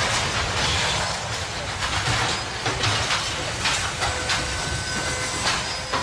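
A train running close by, with a dense rattling clatter of cars and wheels, scattered knocks and a faint high squeal about four seconds in.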